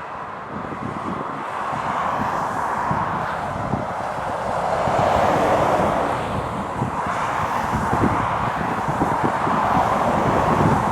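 Lorries passing on a wet road, their tyre and engine noise swelling twice as they go by, with wind buffeting the microphone.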